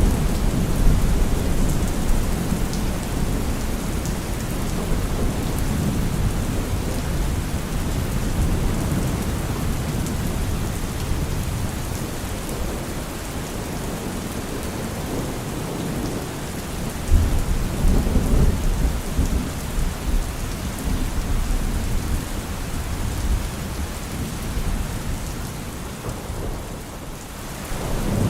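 Heavy rain drumming on a car roof, with thunder rumbling under it. A louder clap of thunder breaks in a little past the halfway point and rolls on for a few seconds.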